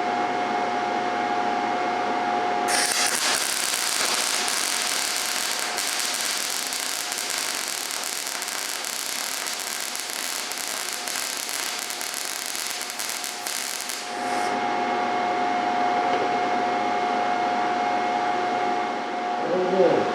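MIG welding arc crackling steadily for about eleven seconds as a weld bead is run, starting a few seconds in and cutting off suddenly. A steady hum sits under it before and after.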